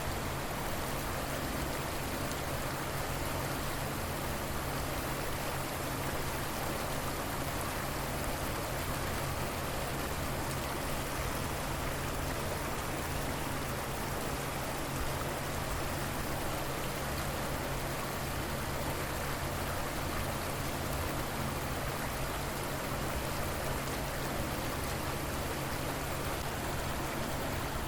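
River water flowing steadily, an even rushing wash of running water with no breaks.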